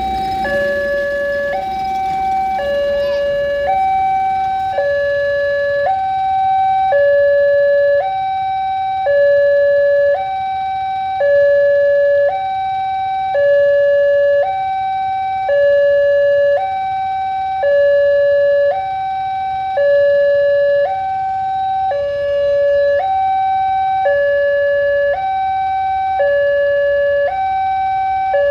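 Railway level-crossing warning alarm sounding continuously, an electronic two-tone signal alternating evenly between a higher and a lower tone about once a second, warning that a train is approaching the crossing.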